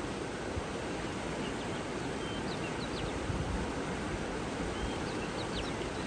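Steady rushing of flowing water, with faint short bird chirps and whistles dotted over it, mostly in the middle and near the end.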